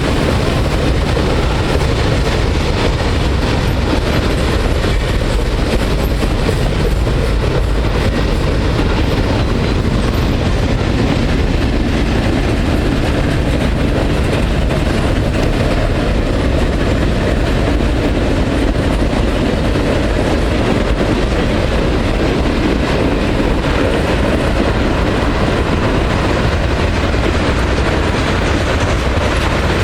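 Norfolk Southern freight train passing close by: a steady, loud rolling rumble of locomotives and rail cars on the track.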